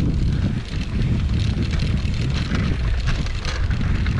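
Wind buffeting the microphone of a moving bicycle, a steady low rumble, with scattered light rattling and ticking from the bike on rough ground.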